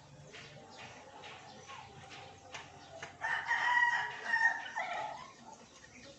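A long, loud bird call lasting about two seconds, starting about three seconds in, over faint scattered clicks.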